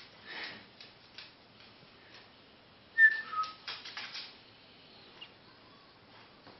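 Eclectus parrot giving a short two-note whistle about three seconds in, the second note lower than the first, amid soft clicks and rustling.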